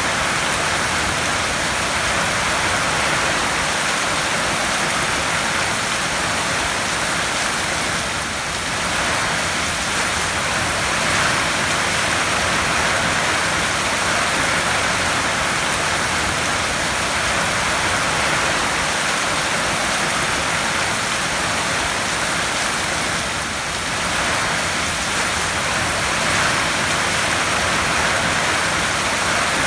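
Heavy rain on a tin roof: a dense, steady hiss of drops on metal sheeting, easing slightly for a moment twice.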